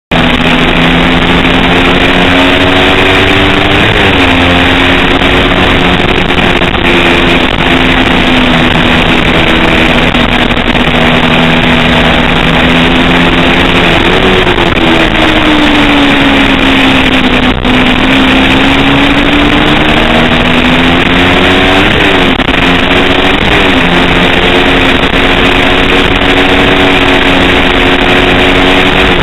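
Small-displacement racing motorcycle engine running hard at high revs. The pitch jumps briefly at several gear changes and, in the middle, dips slowly and climbs back as the bike slows and accelerates again.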